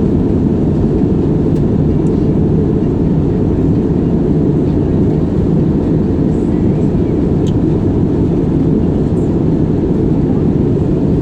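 Steady low rumble of a Wizz Air airliner, even and unchanging.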